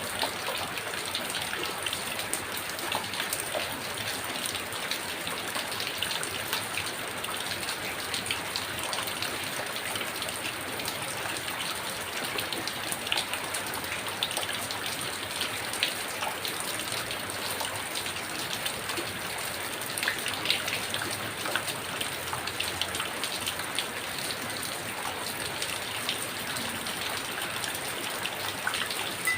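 Heavy rain falling steadily, a constant hiss of rain with close individual drops ticking on a surface.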